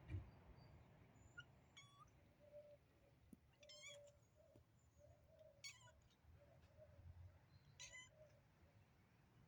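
A kitten mewing in a faint, high little voice: four short mews about two seconds apart.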